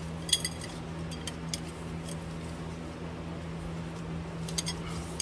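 A wrench working on a semi truck's transmission drain plug to loosen it: a few sharp metallic clicks and clinks at irregular moments, over a steady low hum.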